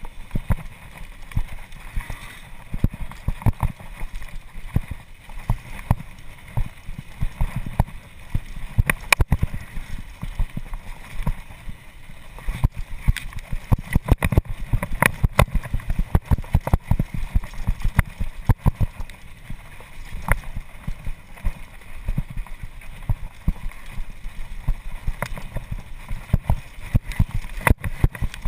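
Mountain bike riding down a rough downhill trail: a constant low rumble with frequent sharp knocks and clatters from the bike.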